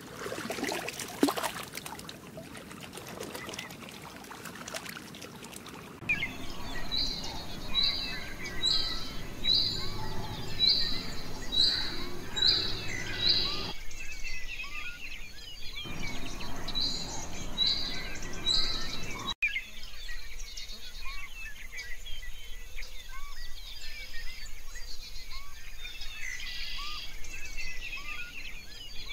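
A steady rushing hiss, then, after a cut, outdoor background noise with a bird repeating a short high call about once a second, in a run of eight notes and later three more; after another cut, only faint scattered chirps remain.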